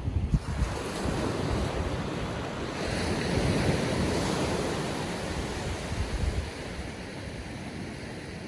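Small ocean waves breaking and washing up on the shore, the wash swelling about three seconds in and easing off after six seconds. Wind buffets the microphone near the start.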